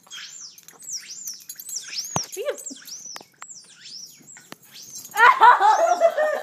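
High, squeaky chirps from a phone's speaker playing a prank sound effect, repeating about two or three times a second. About a second before the end, a louder, lower run of quick rising-and-falling voice-like notes comes in.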